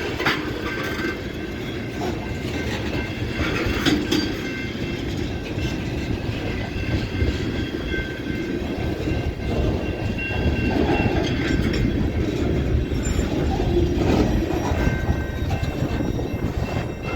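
Freight cars rolling past: a steady rumble of wheels on rail, with sharp clicks as wheels cross rail joints and faint, steady high squealing from the wheels.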